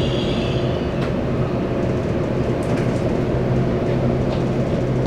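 Steady low hum inside an EMU800 electric multiple unit, with a few steady tones running through it and a few faint clicks.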